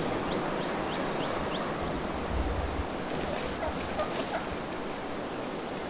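Steady rushing wind outdoors, with four short, rising high chirps from a small bird in the first second or two.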